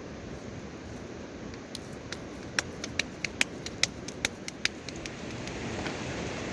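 Steady hiss of heavy rain, with a quick run of about a dozen sharp clicks and taps in the middle.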